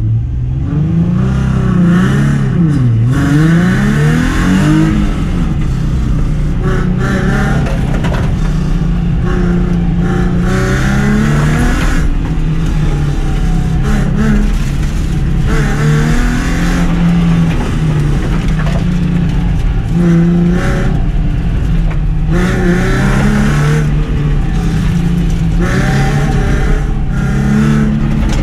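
Car engine under hard driving on an autocross course, its revs repeatedly rising under acceleration and falling off between corners.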